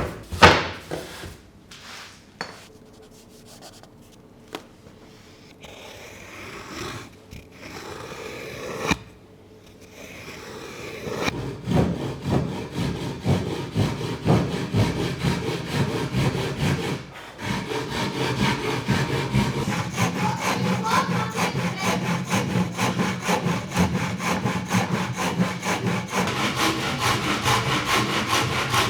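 Scattered knocks and handling of wood, then from about eleven seconds in a hand saw cutting through wood in steady, repeated strokes.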